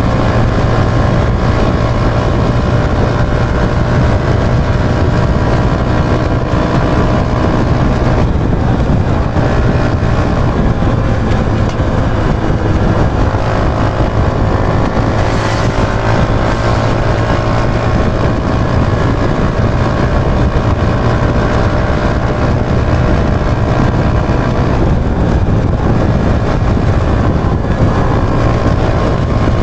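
Yamaha YB125Z DX's single-cylinder 125 cc four-stroke engine running steadily under way, over heavy wind and road noise. The engine note shifts about a quarter of the way in and again near the end.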